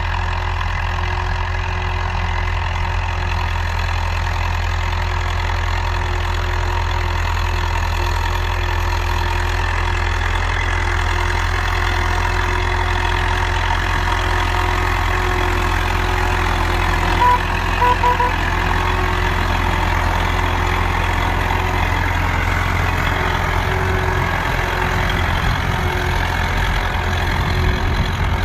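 UTB Universal 650 tractor's diesel engine running steadily while pulling a PP3 plough. Three short beeps sound a little past halfway.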